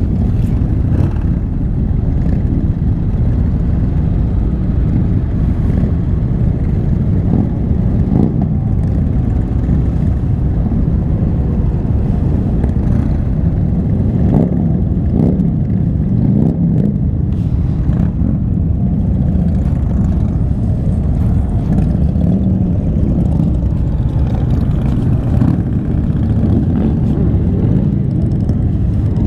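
Motorcycles riding in a group: steady wind rush and engine noise, with engines rising and falling in pitch for a few seconds in the middle.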